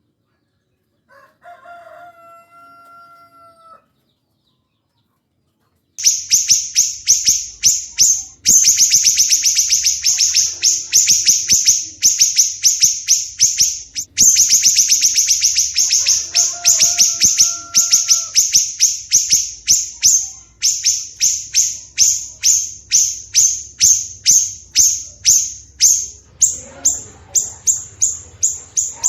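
Recorded cage-bird song for masteran training (cucak jenggot and siri-siri kecil): a short drawn-out lower call, then from about six seconds in a loud, fast, unbroken run of sharp high-pitched chirps, several a second, with the drawn-out lower call returning once partway through.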